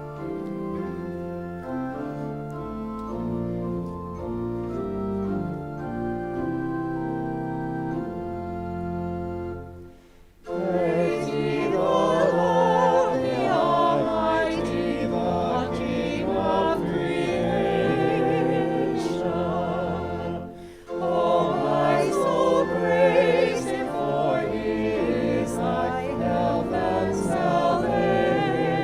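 An organ plays sustained hymn chords. About ten seconds in, a choir starts singing the hymn over the organ, with a brief pause for breath around twenty seconds in.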